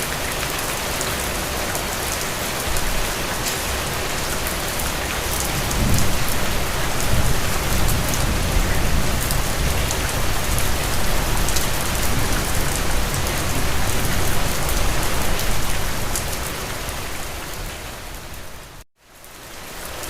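Steady rain falling, an even hiss with scattered drop ticks. A deeper low rumble swells about six seconds in and eases off over the following ten seconds. The sound dips out briefly near the end and then comes back.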